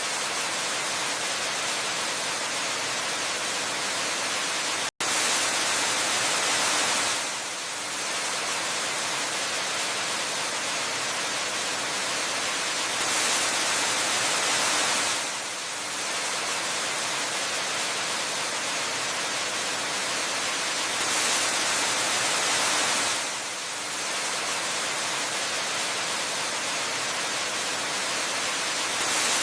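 Waterfall ambience: a steady, hiss-like rush of falling water, bright and without low rumble, swelling and easing slightly about every eight seconds. About five seconds in it cuts out for an instant.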